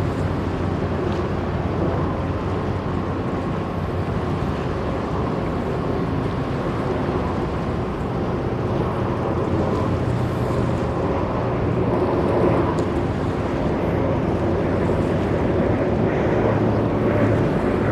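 Low, steady ship engine drone under wind on the microphone, the hum growing a little stronger about halfway through.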